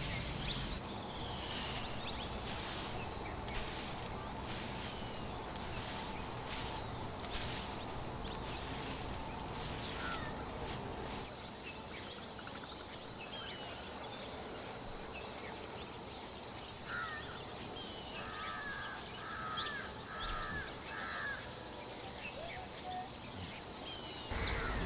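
Crow cawing harshly over and over, more than a dozen caws in about ten seconds. It is followed a little past the middle by a short run of five or six small bird chirps, over a steady high background tone.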